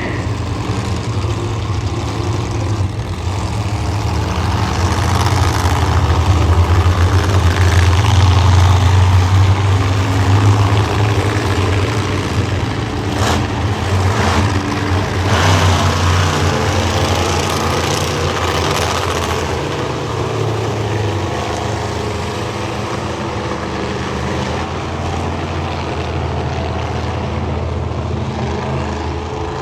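Monster truck engine running loud and low, swelling for several seconds and easing off again, with a few short sharp bangs partway through.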